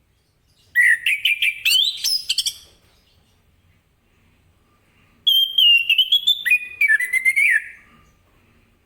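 Orange-headed thrush (anis kembang) in full song: two rapid phrases of quick, varied whistled notes, each about two seconds long, with a pause of a few seconds between them.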